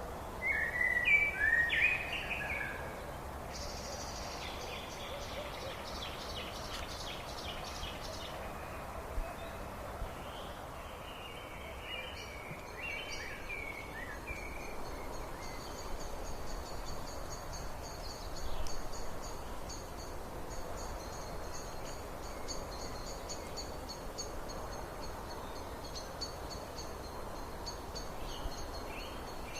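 Several wild birds singing over a steady background hiss: a loud warbled phrase right at the start, a fast high trill a few seconds in, and a long, even high-pitched trill running through the second half.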